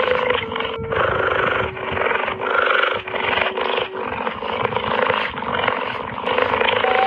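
An animal's rough, noisy calls, broken every second or so, over gentle background music with long held notes.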